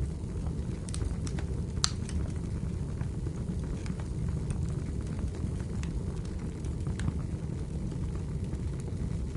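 Wood fire crackling in a fireplace: scattered sharp pops and snaps over a steady low rumble, with the loudest pop about two seconds in.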